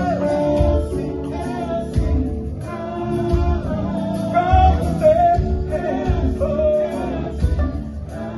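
Live gospel band music with singing over a steady bass and drum beat.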